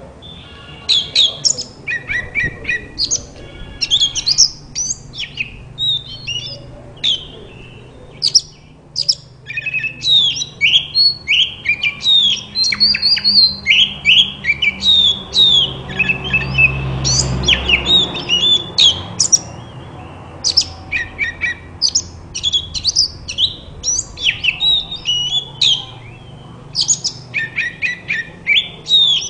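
Oriental magpie-robin (kacer) singing a fast, varied run of sharp whistles and chirps, almost without a break, over a low hum that swells for a moment midway.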